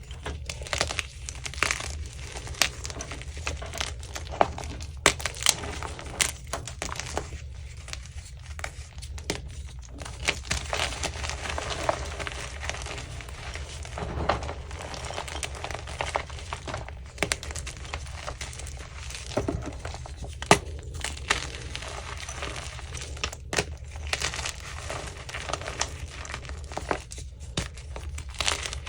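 Chunks of Easy Grip France gym chalk being crushed and crumbled, giving a continuous run of irregular crunches and crackles. A steady low hum runs underneath.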